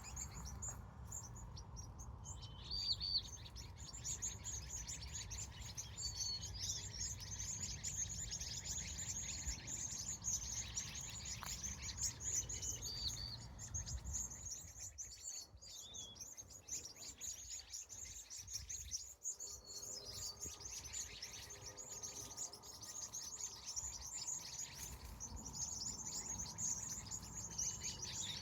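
Small birds chirping in the evening: a dense, continuous high twittering with short separate calls every few seconds, over a low outdoor rumble that drops away midway and returns later.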